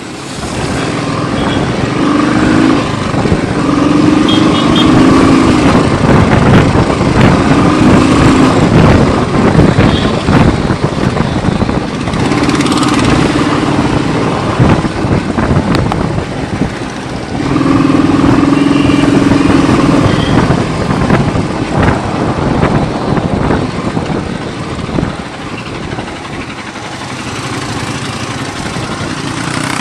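Motorcycle engine running while riding, with loud wind rush over the microphone; a steady engine tone comes and goes in stretches of a few seconds.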